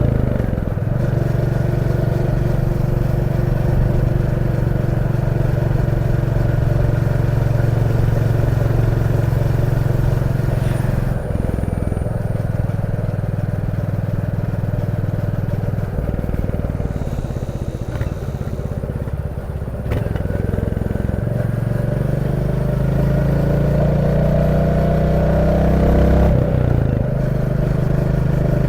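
Royal Enfield Classic 350's 349 cc single-cylinder engine running under way on the road. It holds a steady note at first, drops in pitch about a third of the way in, then rises again through the later part and steps down sharply near the end, as on an upshift.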